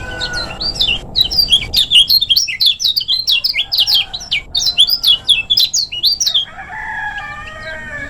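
Kecial kuning songbird singing a fast, dense run of quick, high whistled notes for about six seconds, then breaking off into lower, softer warbling near the end.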